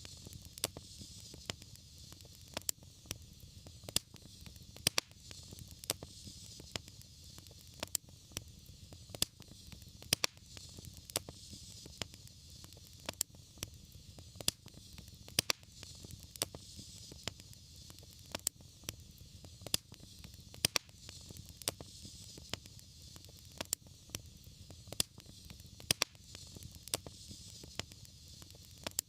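Wood fire crackling: irregular sharp pops and snaps, several a second, over a steady low rumble and a soft hiss.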